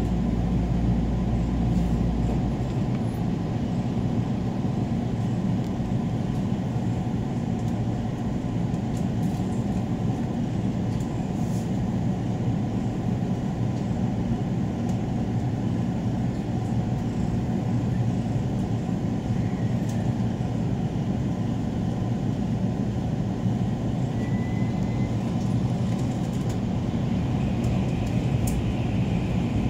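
Steady low rumble of a train carriage in motion, heard from inside: wheels running on the rails with no break or change.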